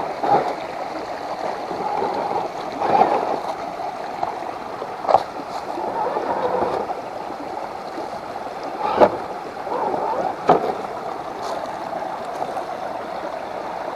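Water sloshing and churning as a 1:10 RC crawler wades through a pond, with a few sharper splashes.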